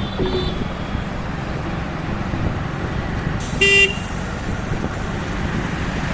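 Steady road and traffic noise from a moving motorbike in city traffic. A brief faint horn toot sounds right at the start, and a louder vehicle horn blast of about half a second comes in the middle.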